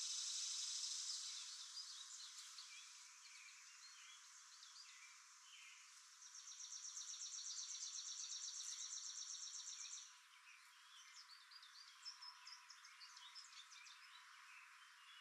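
Faint, high bird chirps and calls scattered throughout, opening with a dense high buzzing that fades after about a second. About six seconds in, a fast high trill runs for about four seconds and stops.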